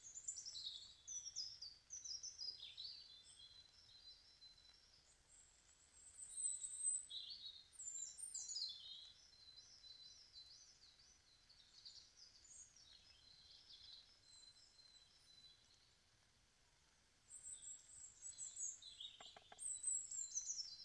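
Small songbirds singing: quick high chirps and falling trills, overlapping, with a few seconds of near quiet after the middle before the singing picks up again.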